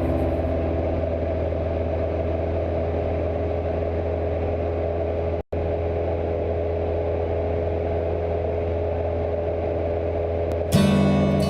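Cessna 172 light single-engine plane's piston engine and propeller droning steadily. The sound cuts out for a split second about halfway through, and music comes in near the end.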